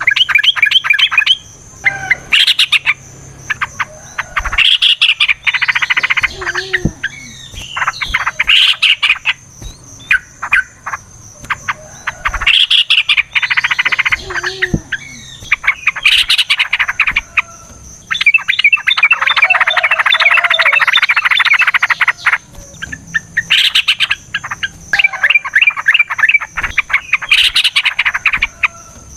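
Yellow-vented bulbul (trucukan) singing in loud, rapid chattering bursts every few seconds, with one long trilled run from about 19 to 22 seconds in: the long fast 'ropel' song used as a lure call.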